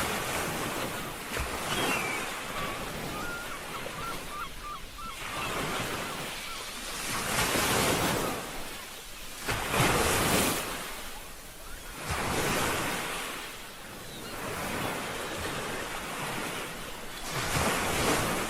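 Sea waves breaking and washing up the shore, the surf swelling and easing every two to three seconds, with wind.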